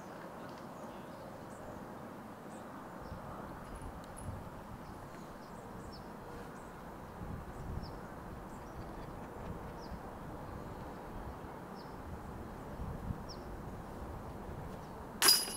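Outdoor ambience: a steady low hiss with faint short bird chirps scattered throughout. Near the end there is a sudden loud clash with a brief ringing tail.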